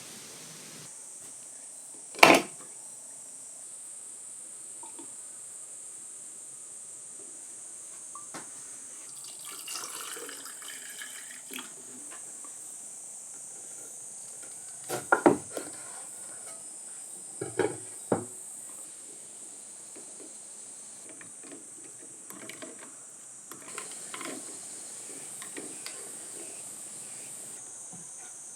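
Kitchen prep: a tap runs briefly, and dishes or pots knock sharply a few times, once near the start and in a cluster over the second half. A steady high insect drone sounds throughout.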